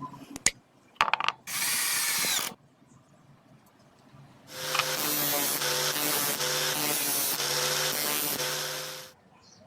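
Electric drill running in two bursts: a short one of about a second, then a longer run of about four and a half seconds with a steady, slightly pulsing hum, as a drill bit is run or tested.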